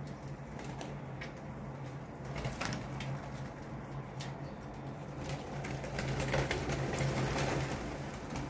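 Wild birds in a tree calling in many short, sharp chirps, growing busier about six seconds in, over a steady low hum.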